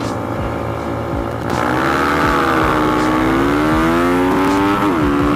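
Motorcycle engine pulling under throttle: it gets louder with revs climbing about one and a half seconds in, its pitch rising and falling, then dipping briefly near the end before holding steady.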